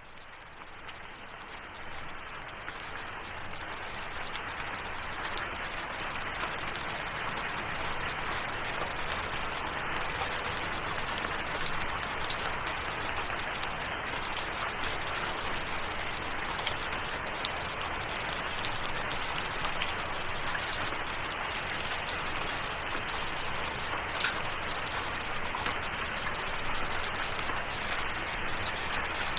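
Steady rain: a dense even hiss with many small drops ticking through it, fading in over the first few seconds and then holding level.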